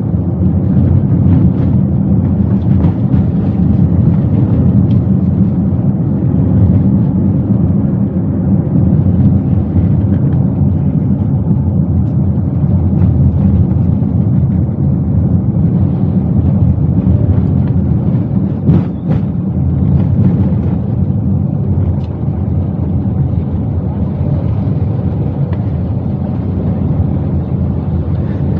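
Steady low rumble of a Toyota Wigo driving, heard inside the cabin: engine and road noise.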